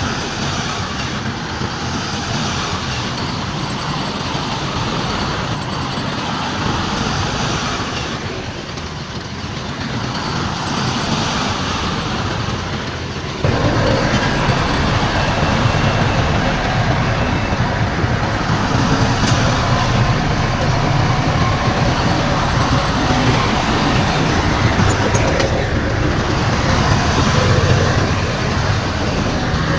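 Heavy earthmoving machinery, bulldozer and dump trucks, running with a steady diesel engine rumble. The sound turns abruptly louder and heavier about halfway through.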